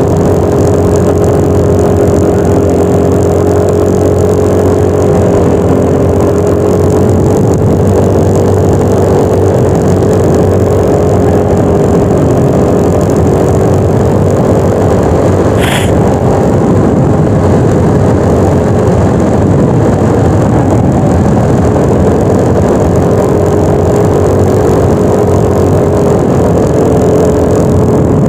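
Yamaha NMAX 155 scooter's single-cylinder engine running at a steady, nearly constant pitch while riding, over a dense rush of noise. A single brief tick about halfway through.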